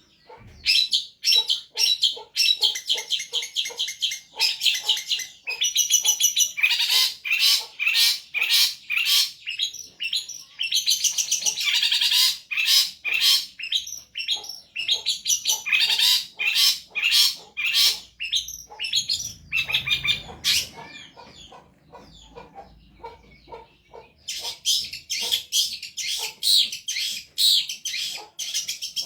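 Long-tailed shrike (cendet) singing loudly and persistently: long runs of fast, repeated high notes and chattering phrases, a song full of mimicked calls. The song eases into a short lull about two-thirds of the way through, then starts again.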